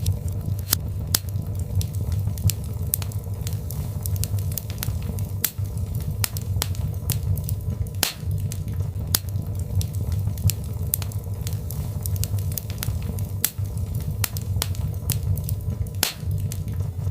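Birch logs burning in a fireplace: irregular sharp crackles and pops, several a second, over a steady low rumble of the flames.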